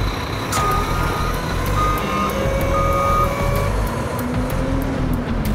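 Dubbed truck sound effect: an engine running with a reversing alarm beeping three times, about once a second, over the first few seconds.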